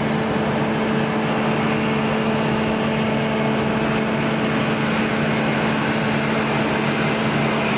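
Jet aircraft engines running steadily: a loud, even rush with a low hum of a few fixed tones that holds the same pitch throughout.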